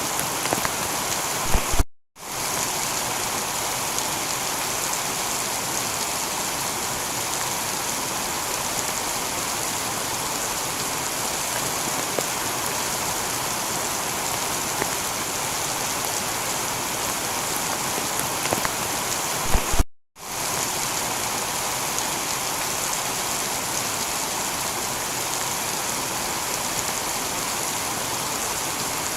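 Steady heavy rain falling on a tiled roof, an even hiss with scattered drop ticks. The sound cuts out for a split second about two seconds in and again about twenty seconds in, each time just after a short low thump.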